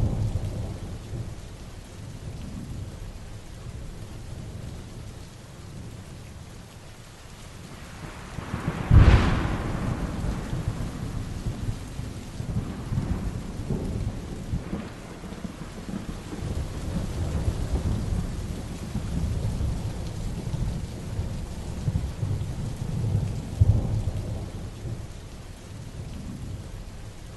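Heavy rain falling steadily in a thunderstorm. About nine seconds in a loud, sharp clap of thunder breaks and rolls on as a low rumble for several seconds, with a weaker rumble near the end.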